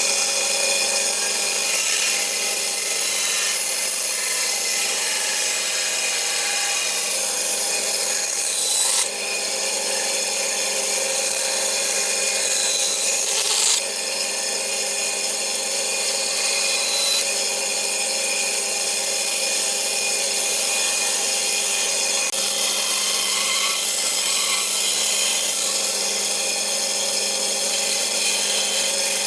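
Electric power tool running steadily against wood, its motor whine held at a constant pitch, with brief dips about nine and fourteen seconds in.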